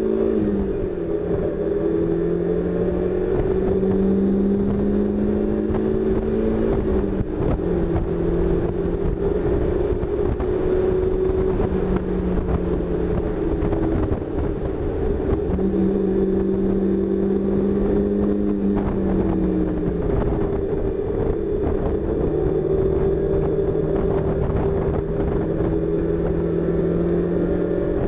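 1999 NB Mazda Miata's 1.8-litre four-cylinder engine, heard from the open cockpit while driving hard on track. Its note climbs as the car pulls, drops back about seven seconds in, climbs again and drops about twenty seconds in, then holds steady, over a steady rush of wind and road noise.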